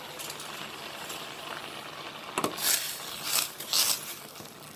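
A pot of rice and water simmering with a steady hiss. From about two and a half seconds in, a spoon stirs and scrapes through it in about four strokes as jaggery is mixed in to dissolve.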